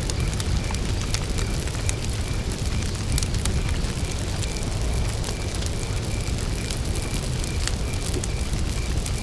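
Wood campfire burning with scattered sharp crackles and pops over a steady low rumble. A cricket chirps steadily in the background, about two to three chirps a second.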